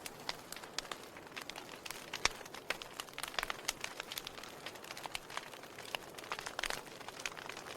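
Wood fire crackling: irregular snaps and pops of burning logs over a soft hiss, with one sharper pop about two seconds in.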